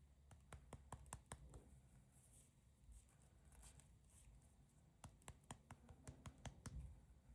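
Faint clicks and taps of hands handling candy and its packaging, in two quick flurries: one about a second in and another from about five seconds in.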